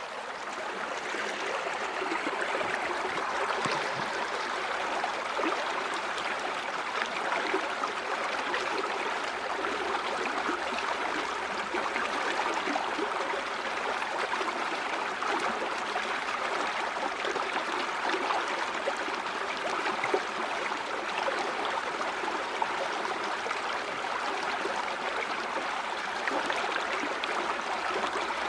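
A shallow stream or river flowing over rocks: steady babbling and trickling water.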